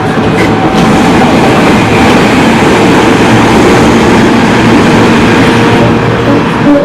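Tobu 30000 series electric train running at speed: a steady rumble of wheels on rail, with faint steady motor and inverter tones under it.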